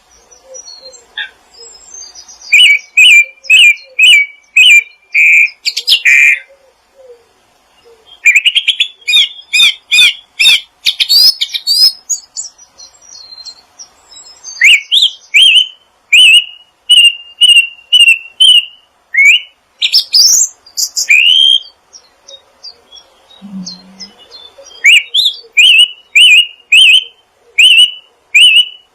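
Songbirds singing: loud series of sharp, repeated chirps, about two a second, coming in bursts of several seconds with short pauses between.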